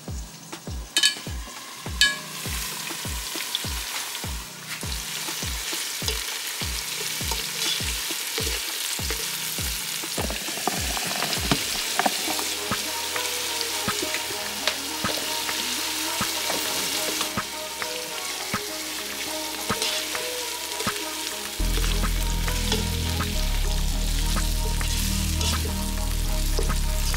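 Food sizzling as it fries in a pan, with scattered light clicks and scrapes of a utensil stirring it.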